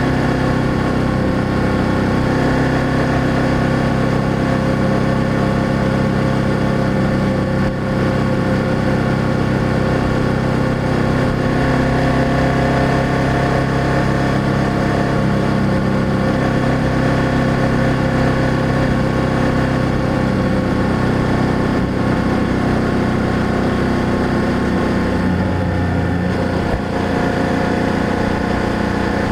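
BMW F800GS parallel-twin engine and exhaust running steadily under way. The engine note drops about 25 seconds in.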